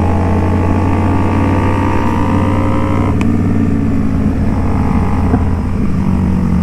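Indian Scout Bobber's V-twin engine running under way, its pitch creeping up and then dropping about three seconds in.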